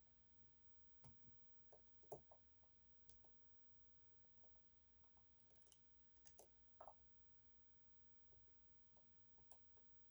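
Faint, irregular metal clicks and ticks of a short flat hook pick and tensioner working the sliders inside an EVVA 3KS high-security lock, with a few slightly louder clicks about two seconds in and again between six and seven seconds in.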